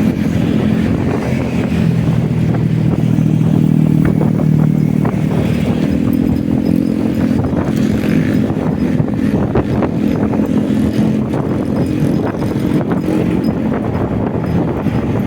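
Motorcycle engine running on the move, its pitch stepping up about six seconds in.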